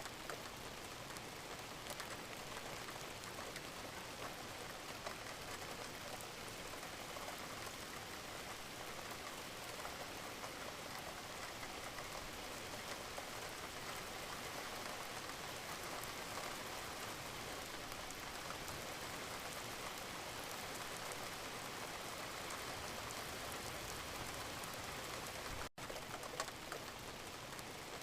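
Gentle rain falling steadily, an even hiss of fine drop patter. The sound cuts out for a split second near the end.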